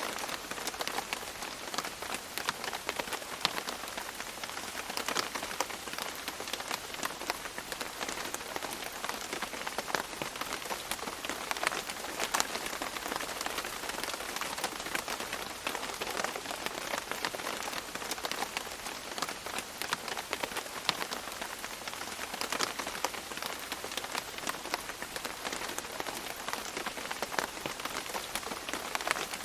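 Steady rain falling and dripping on leaves, a continuous patter with many separate drop hits scattered throughout.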